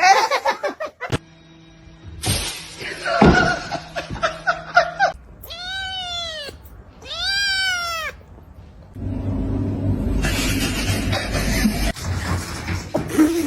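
Cat meowing twice, two long calls that each rise and then fall in pitch. Later a loud, steady rushing noise with a low rumble follows.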